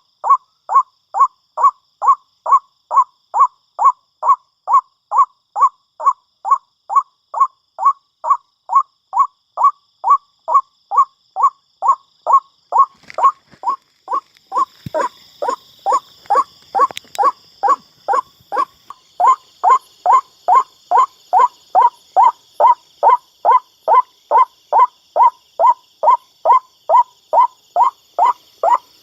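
White-breasted waterhen (ruak-ruak) calling, one loud note repeated steadily about twice a second. A few sharp clicks fall around the middle, and a faint high hiss sits under the calls in the second half.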